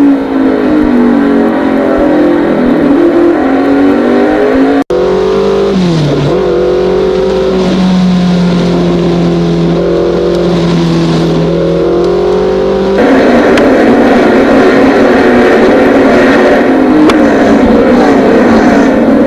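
Slot car electric motors whining, their pitch rising and falling as the cars speed up and slow down. The sound breaks off abruptly about five seconds in and again about thirteen seconds in, as if cut between takes.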